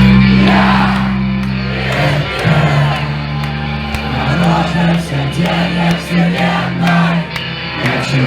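Live hardcore/emo band playing loud, heavy low guitar and bass notes held and then shifting about two and a half seconds in, with a crowd shouting and singing along.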